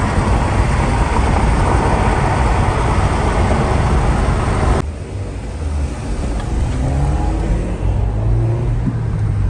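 Car engine and exhaust under acceleration: a loud rushing roar that cuts off abruptly about halfway through, then an engine revving up with a rising pitch.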